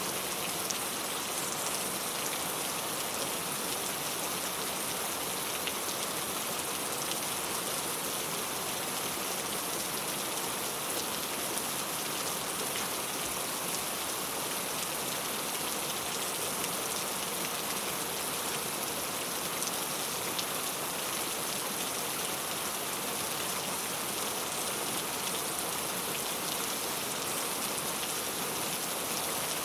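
Steady rain falling on a clay-tile roof: an even hiss of many drops with faint patter, unchanging throughout.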